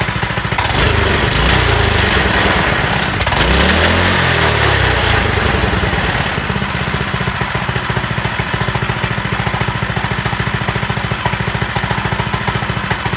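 Hammerhead Mudhead 208R go-kart's single-cylinder engine revved twice under throttle, then settling to an even idle: the surging fault is cured.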